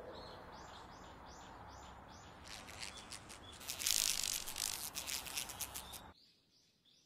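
Small birds chirping in a quick repeated series, about three short chirps a second, over a steady hiss. The chirping grows denser and louder around the middle. The hiss cuts off suddenly near the end, and the chirps carry on faintly.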